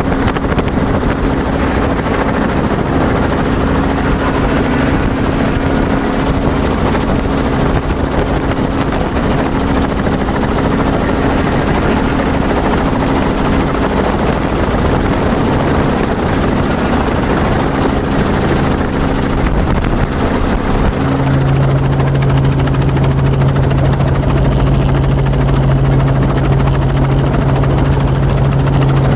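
Helicopter in flight heard from aboard: a loud, steady drone of engine and rotor with a constant hum, and about two-thirds of the way through a deeper hum comes up strongly and holds.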